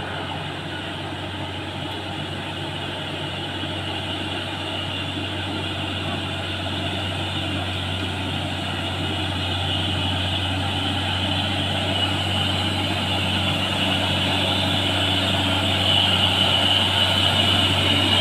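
Heavy diesel truck engine pulling up a steep hill, a steady low drone that grows gradually louder as the truck comes closer.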